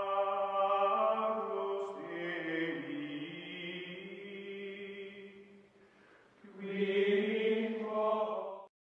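Outro background music of long held, choir-like tones. It fades low about six seconds in, swells again, and cuts off abruptly just before the end.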